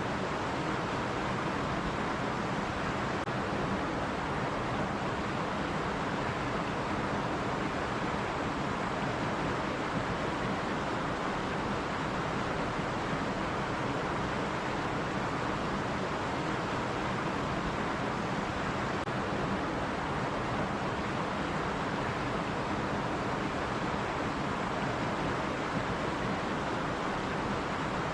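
Stream water running steadily over rocks, a continuous even rush with no breaks.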